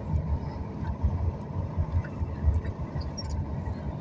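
Boeing 737 MAX 8 cabin noise: an uneven low rumble with a faint steady tone above it and a few light ticks.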